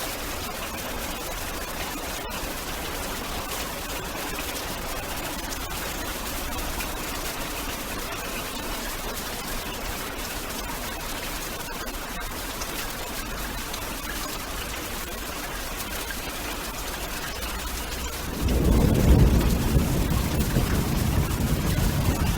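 Steady hiss of heavy rain, then a low rumble of thunder breaks in suddenly near the end and keeps rolling.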